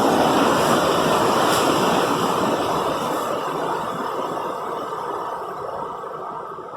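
A strong gust of storm wind rushing steadily, then dying away over the last few seconds.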